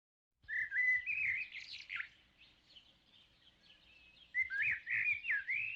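Birdsong: quick chirps and short whistled notes in two bursts, with about two seconds of silence between them.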